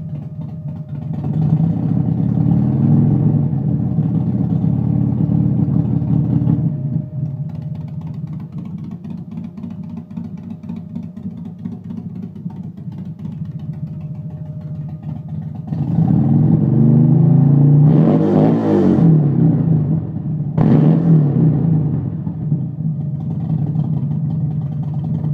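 2005 Buell XB12Scg Lightning's air-cooled V-twin running through a race exhaust. It is held at raised revs for about six seconds near the start and drops back to idle. About two-thirds of the way through it is revved again, with quick throttle blips that rise and fall in pitch, then settles back to idle.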